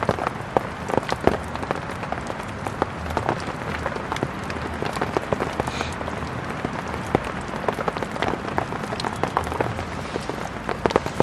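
Heavy rain falling on a tent's fabric: a dense, steady patter with many sharper individual drop hits scattered irregularly through it.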